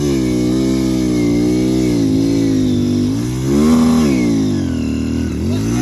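Motorcycle engine revving under load, its pitch rising and falling repeatedly, highest about four seconds in.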